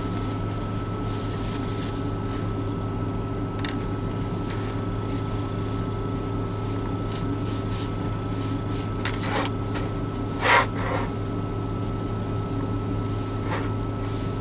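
Steady mechanical hum of a truck cab's running climate system, with a faint steady high tone over it. A few short rustles break in about nine to eleven seconds in, the loudest about ten and a half seconds in.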